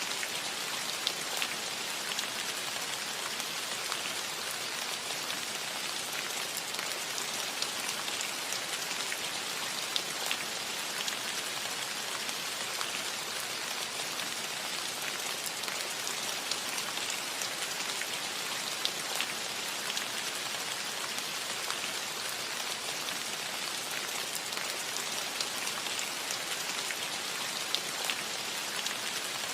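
Steady rain falling on a metal roof, an even hiss with many small drop taps scattered through it.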